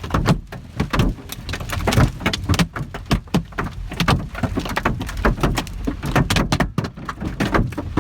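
Large hailstones pelting the roof and body of a Volvo 940 wagon, heard from inside the cabin as a dense, irregular hammering of sharp knocks over a low rumble.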